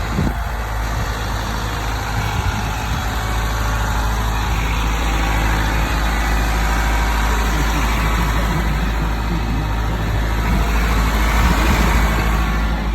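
Isuzu NRR box truck's diesel engine idling steadily.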